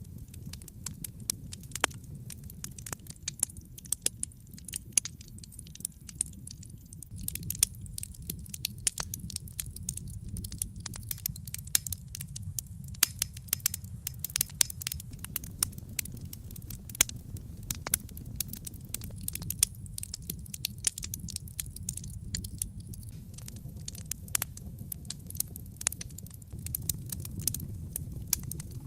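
Wood fire burning in a fireplace, crackling with frequent irregular sharp pops and snaps over a low steady rumble.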